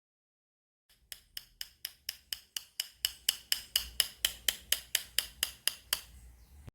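Bamboo sticks struck together in a steady beat of about four sharp, ringing clicks a second, growing louder over the first couple of seconds and stopping abruptly near the end.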